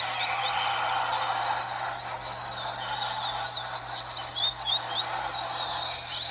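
Several double-collared seedeaters (coleiros) singing at once, their short, fast whistled phrases overlapping without pause, over steady background noise and a faint low hum.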